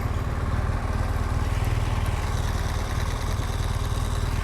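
BMW R1200GSA's flat-twin (boxer) engine running at steady revs with an even, rapid low pulse.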